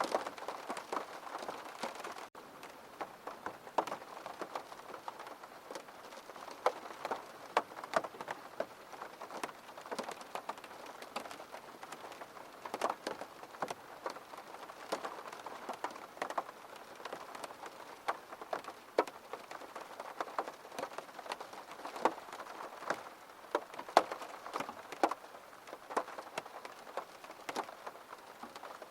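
Gentle rain falling steadily, with many sharp, irregular drops tapping on a surface over a soft hiss.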